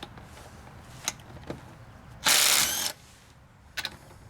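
Ridgid subcompact brushless impact driver on a lug nut, giving one short burst of hammering, under a second long, about two seconds in. A few light clicks of the socket and tool come before and after it.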